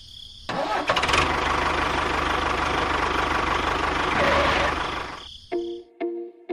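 A small engine runs steadily for about four seconds, starting about half a second in and dying away near the end. Plucked music notes begin just after it stops.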